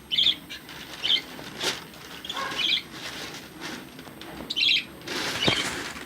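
Pet lovebirds chirping in short, high calls about once a second, with wings fluttering in a noisy stretch near the end.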